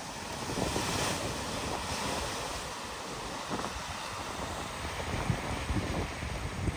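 Floodwater washing and splashing as a vehicle drives through it, with wind buffeting the microphone.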